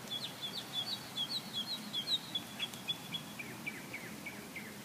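A wild bird singing a quick run of short, high chirps, the notes dropping slightly in pitch over the last second or two.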